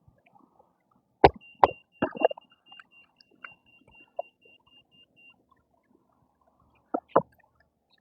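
Rapid electronic beeping, about four or five short beeps a second for about four seconds, starting among a few knocks and thuds; two more knocks come near the end.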